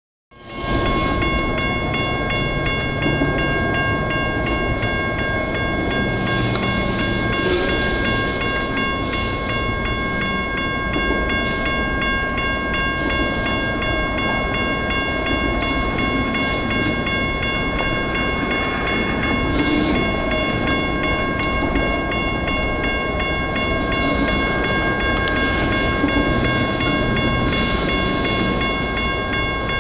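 Freight cars rolling past close by: a steady rumble of wheels on rail with scattered knocks and clacks. Over it, a steady high ringing tone holds at one pitch.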